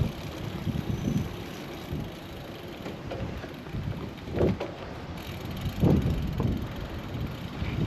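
Low rumble of wind buffeting a GoPro's microphone and road noise from a moving bicycle, with a few louder swells about four and a half and six seconds in.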